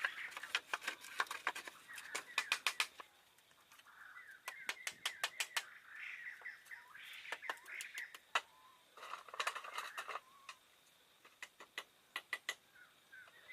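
Quick runs of sharp knocks or clicks in four bursts, with birds chirping between them.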